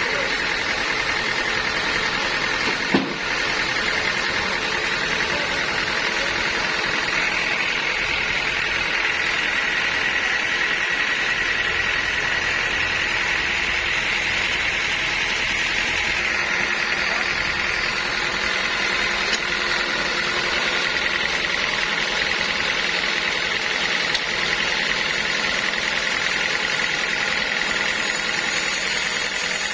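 Sawmill machinery running steadily, with a high whine that strengthens after a few seconds. There is a single sharp knock about three seconds in.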